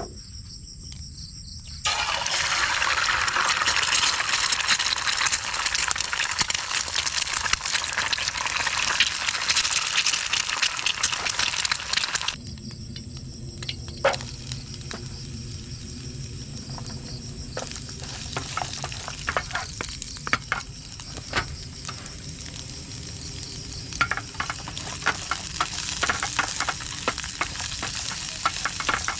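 Food frying in hot oil: a loud, even sizzling hiss starts about two seconds in. About twelve seconds in it changes abruptly to a quieter sizzle with scattered pops and crackles and the occasional scrape of stirring.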